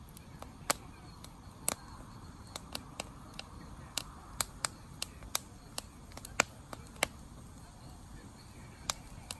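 Wood campfire burning: sharp, irregular crackles and pops over a low, steady rush of flame.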